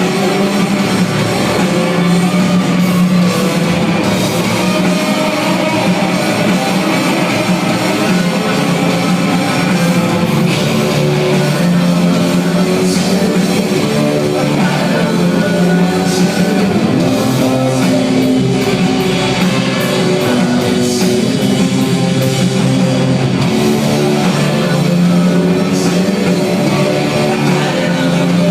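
Rock band playing live: electric guitars, bass and a drum kit, loud and continuous.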